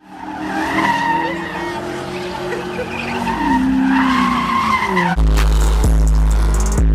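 Car tires squealing under a running engine, as in a burnout or donut, for about five seconds. Then music with a heavy bass comes in suddenly.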